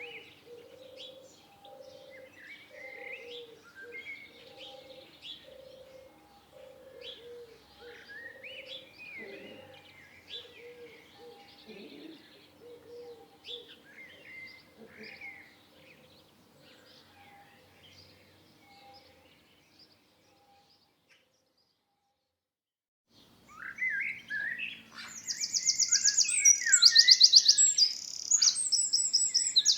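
Several songbirds chirping and calling in short rising and falling phrases, over a low note repeated about once a second. After a break of about two seconds of silence, much louder and denser chirping with fast high trills.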